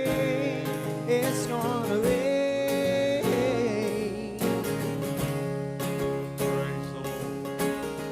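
Country-gospel song with acoustic guitar: the lead singer holds and winds the last sung word over guitar chords, then the guitar strums on as the music slowly fades.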